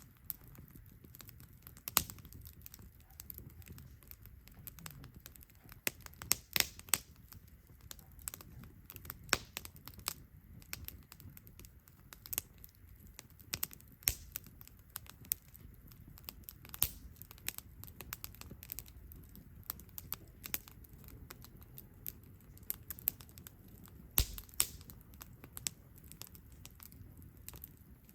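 Wood campfire crackling, with a steady stream of irregular sharp pops; a few louder pops stand out around two seconds in, around six to seven seconds in, and about twenty-four seconds in.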